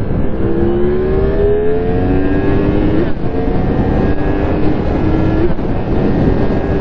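Motorcycle engine accelerating hard through the gears: its pitch climbs, drops at an upshift about three seconds in, climbs again and drops at another shift about five and a half seconds in, then holds steady. Heavy wind noise on the microphone runs under it.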